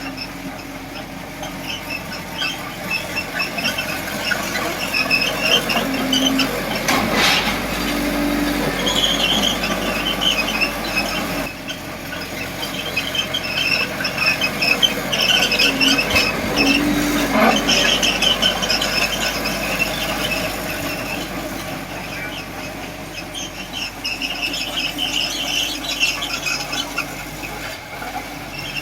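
Small Komatsu D20P bulldozer's steel tracks squealing in short, repeated high-pitched bursts as it moves, with its engine running underneath.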